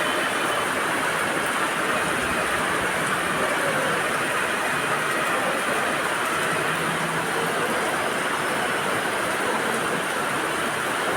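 Heavy rain falling steadily, an even unbroken hiss with no distinct drops or strokes standing out.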